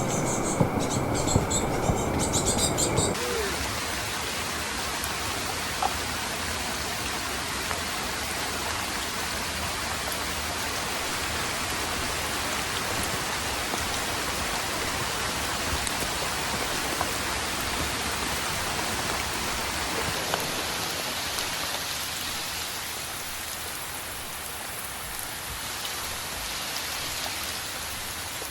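Steady rain falling, an even hiss. Over the first three seconds a louder mix of other sounds rides on top and then cuts off.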